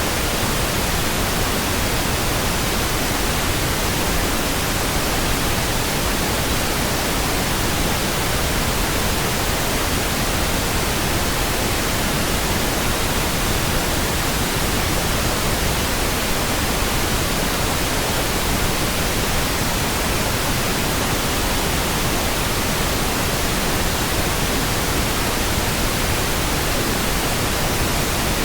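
Steady pink noise: an even, unchanging hiss across the whole range, fuller toward the low end than white noise, with no events or variation.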